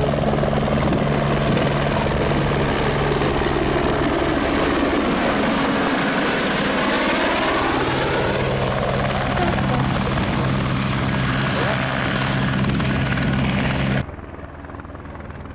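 Helicopter running close by, a steady low rotor and engine hum with a high steady whine. The sound cuts off suddenly about fourteen seconds in.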